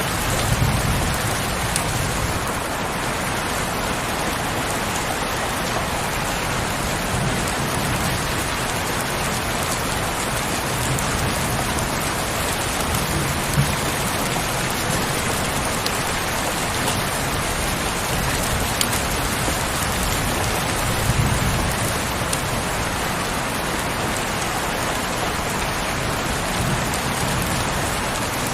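Heavy rain falling steadily, a dense, even hiss of drops, with a few soft low rumbles swelling up now and then.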